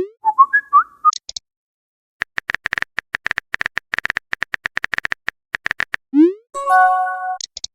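Phone chat sound effects: a message alert tone (a quick rising swoop followed by a few short electronic notes), then a fast run of keyboard typing clicks, then a second alert tone near the end.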